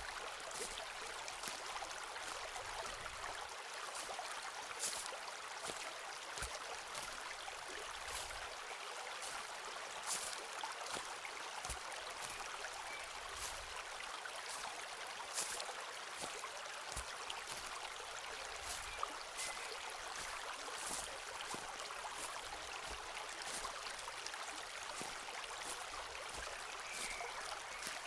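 Footsteps on a forest floor, walking at an even pace: short irregular crunches with occasional soft low thuds. Behind them is a steady hiss of flowing water.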